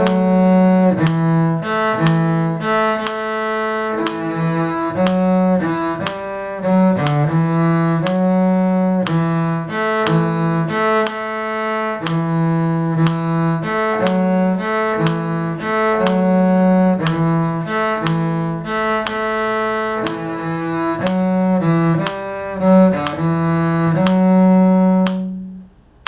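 A bowed string instrument playing the middle line of a simple tune as a steady run of separate notes in a low-middle register. It stops about a second before the end.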